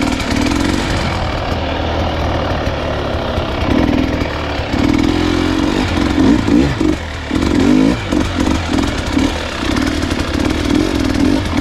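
Dirt bike engine running at low speed, its revs rising and falling in repeated throttle blips.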